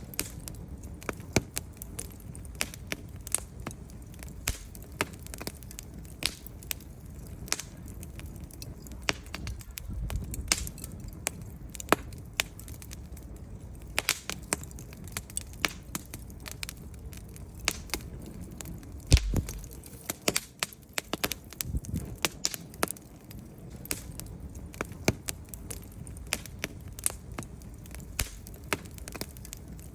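Wood fire burning in a fireplace, logs crackling and popping at irregular intervals over a low rumble of the flames, with a louder pop about nineteen seconds in.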